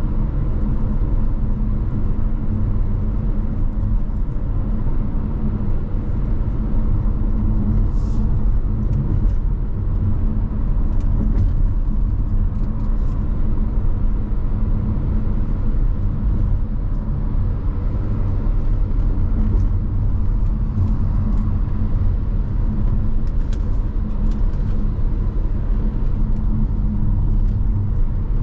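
A car driving, heard from inside the cabin: a steady road and engine rumble, with a few faint ticks now and then.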